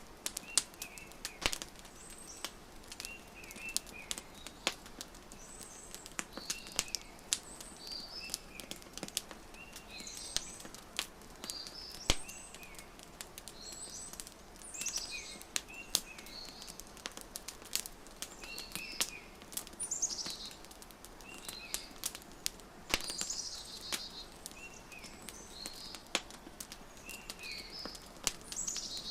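Wood fire crackling with sharp, irregular pops, over small birds chirping again and again in short calls.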